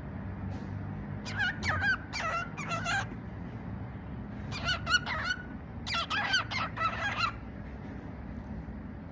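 Cockatiel talking: three bouts of quick, warbling chatter with wavering pitch, the first and last each a second or more long.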